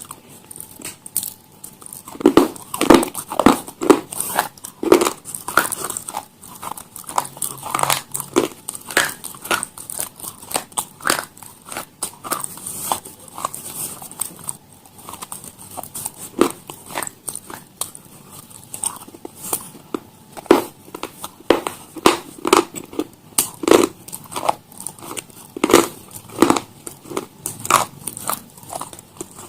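Crisp food being bitten and chewed: a steady run of irregular, sharp crunches.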